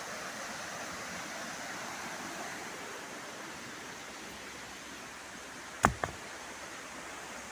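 Steady rushing of a waterfall and river. About six seconds in come two sharp knocks a fraction of a second apart.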